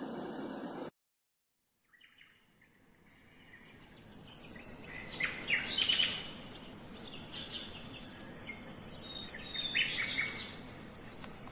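Baby white noise machine's speaker playing a steady noise sound that cuts off about a second in. After a second of silence a birdsong track fades in, with chirps coming and going.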